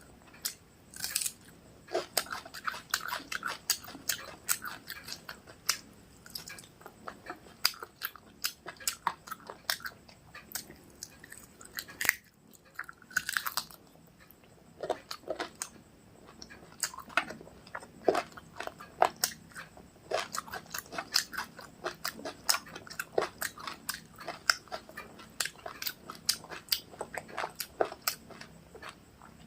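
Close-miked mouth sounds of someone eating rice with chicken curry and egg curry: irregular wet chewing and smacking clicks, with a brief pause about twelve seconds in.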